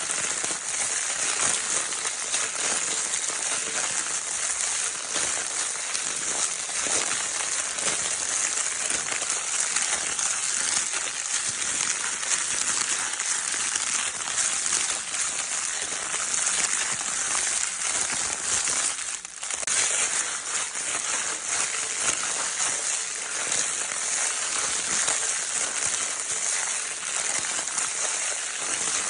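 Crinkle paper in a baby crinkle toy being crumpled continuously: a dense, steady crackling, with a brief break about two-thirds of the way through.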